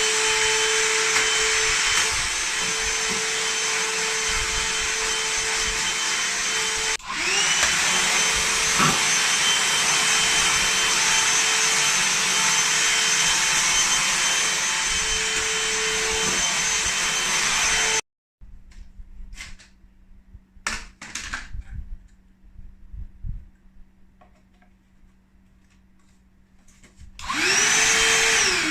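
Cordless hand vacuum cleaner motor spinning up and running with a steady high whine. It drops out briefly and spins up again, then stops suddenly. Light knocks and handling clicks follow, and near the end it starts again and winds down.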